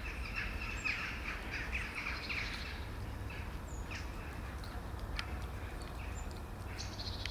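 Small birds chirping in quick, overlapping short notes, thickest in the first three seconds and sparser after, over a steady low rumble of outdoor background noise. A few sharp clicks come near the middle.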